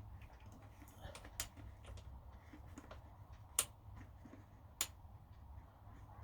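Sporadic light clicks and taps, with three sharper clicks standing out: one about a second and a half in, then two louder ones a little over a second apart past the middle. A low steady hum runs underneath.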